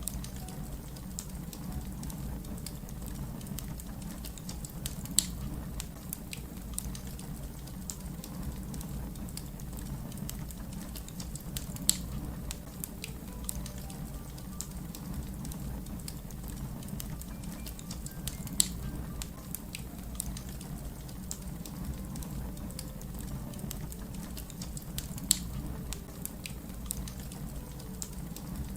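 Wood fire crackling: a steady low rumble with many small ticks and a few sharp pops, the loudest coming about every seven seconds.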